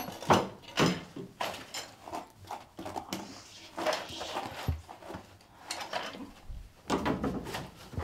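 Irregular knocks, clatters and rustles, about two a second, of objects being handled in a hurry.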